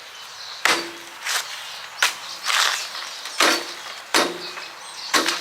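Repeated short scraping and rustling as dry Portland cement is scooped out of an opened bag and the bag is handled, about seven strokes, one every second or less.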